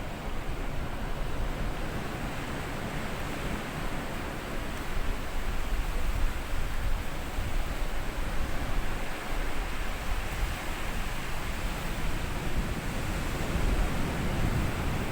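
Small sea waves washing onto a sandy beach and drawing back, a steady wash of surf that swells a little near the end.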